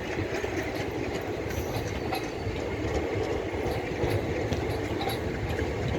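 Passenger train running past with a steady rumble and the clatter of its wheels over the rail joints.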